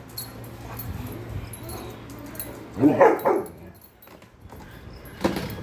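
Labrador barking, with a quick pair of loud barks about three seconds in.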